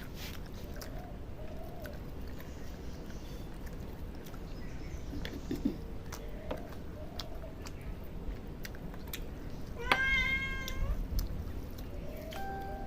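A cat meowing: a few short, faint meows, then one loud, drawn-out meow about ten seconds in.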